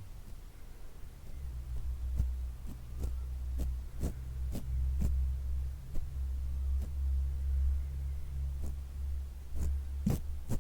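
ASMR brush and hands working close against the microphone: a steady low rumble, with about a dozen light, irregular clicks from about two seconds in, the strongest near the end.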